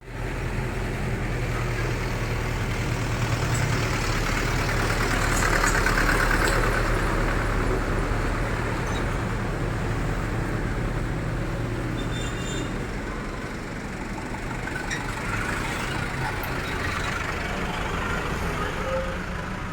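Yanmar TS 190 R single-cylinder diesel engine running steadily, driving a Denyo D300 welding generator.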